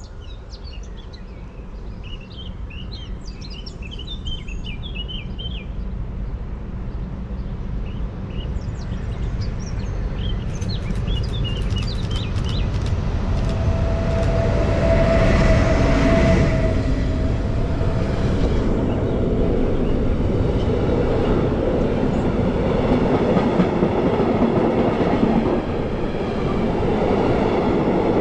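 A train approaches and passes on the line, its rail noise building steadily over the first half and staying loud to the end. A steady tone sounds for several seconds about halfway through, and birds chirp in the first few seconds.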